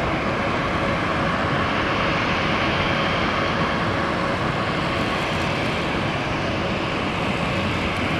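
Jet airliner engines running steadily, a continuous rushing noise with no change in level.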